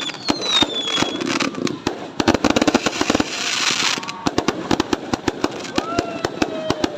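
A fireworks barrage: a rapid, irregular string of bangs and crackles, many a second. In the first second a whistle falls in pitch, and a hiss swells and stops about four seconds in.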